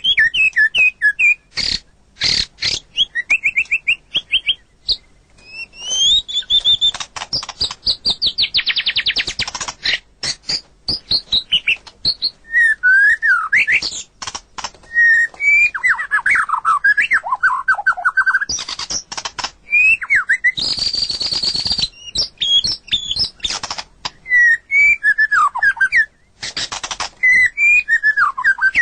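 White-rumped shama (murai batu) singing a long, varied song. It mixes sweeping whistled notes and rapid trills with bouts of fast clicking and several short, harsh rasping bursts.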